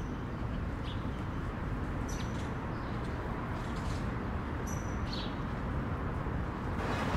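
Outdoor city ambience: a steady low hum of distant traffic, with a few short, high bird chirps, the clearest about two and about five seconds in.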